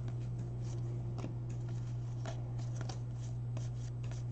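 Faint scattered flicks and slides of baseball trading cards being handled and flipped through, over a steady low hum.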